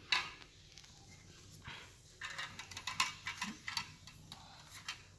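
Hands handling a robot vacuum's plastic dust bin and washable filter: a sharp click just after the start, then a run of small plastic clicks and scrapes as the filter is fiddled with while trying to remove it.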